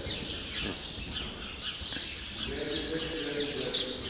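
Small birds chirping, a quick run of many short high chirps.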